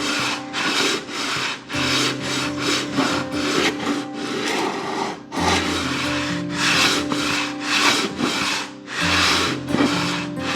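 Sandpaper on a homemade right-angle sanding block rubbing back and forth along the edge of a wooden board, in quick even strokes about two a second, squaring the edge to 90 degrees. Soft background music plays underneath.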